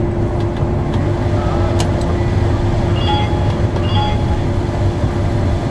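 Case combine running steadily while shelling corn: a constant low rumble with a steady hum over it. A couple of faint short tones sound about three and four seconds in.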